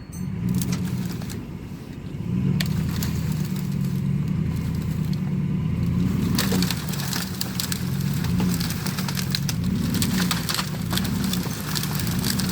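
2005 Dodge Dakota's 4.7-litre V8 running under load, its pitch rising about two seconds in and then wavering, with many sharp cracks and crunches over it.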